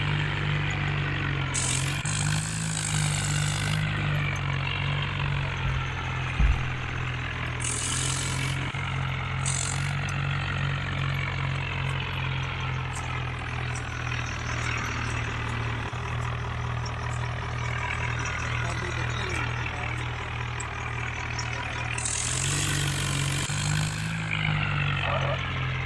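Tractor engine running steadily, with the engine note rising briefly near the end. Several short hissing bursts come over it, and there is one low thump about six seconds in.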